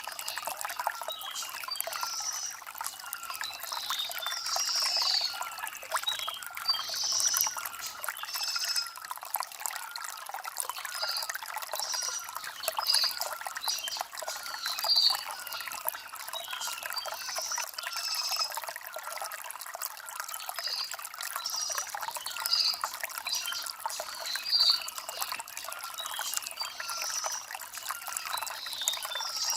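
Shallow stream water trickling over stones, a steady light splashing with little low rumble. Birds chirp throughout, with short calls repeating about once a second.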